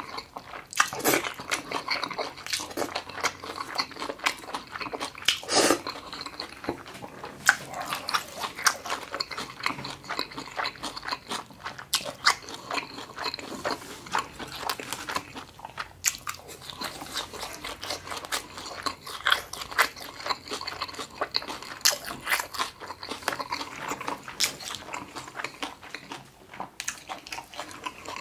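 A person chewing food close to the microphone, with a continuous run of wet smacks and small mouth clicks.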